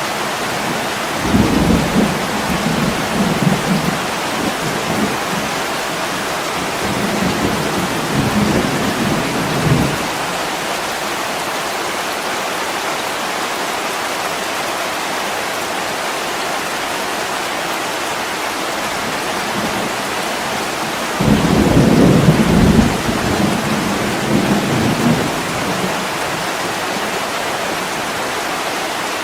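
Steady heavy rain with two long, low rolls of thunder: the first starts about a second in and rumbles on for several seconds, and the second comes about two-thirds of the way through.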